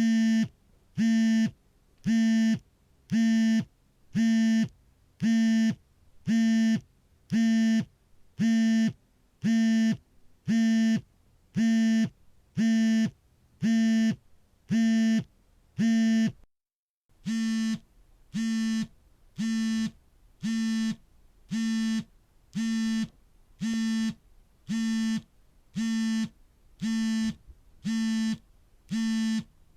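Smartphone vibrating for an incoming call: a steady buzz in short pulses of about half a second, roughly one a second. The buzzing breaks off briefly about halfway through, then starts again slightly quieter.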